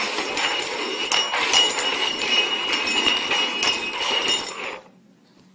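A small jingle bell rattling and ringing amid busy clinking and knocking, as the containers hiding it are shuffled about for about five seconds, then stopping abruptly.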